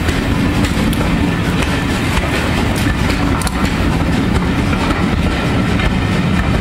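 A train of British Rail Mark 1 passenger coaches rolling steadily past close by. The wheels run on the rails with scattered clicks as they cross the rail joints.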